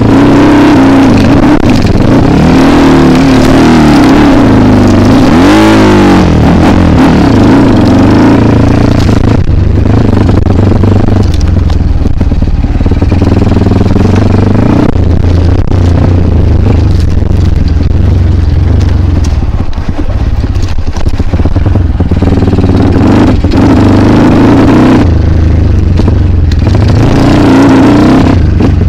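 Kawasaki KLX dirt bike's single-cylinder engine being ridden hard, its revs rising and falling again and again, with a quick rev up and back down about six seconds in, plus some clatter.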